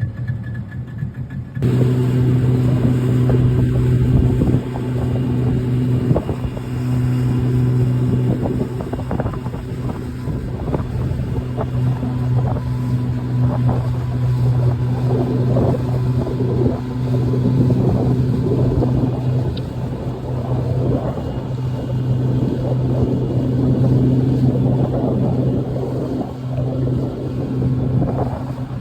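Motorboat engine running at a steady, even pitch, with rushing wind and water splashing against the hull over it.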